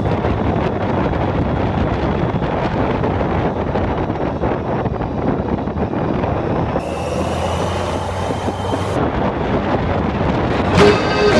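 Motorcycle on the move: engine running under a steady rush of wind noise on the microphone, with a short change in the sound about two-thirds of the way through.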